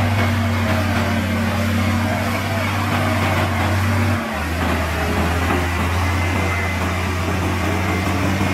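Heavy diesel engine of earth-moving machinery running steadily; its low note drops lower about four seconds in.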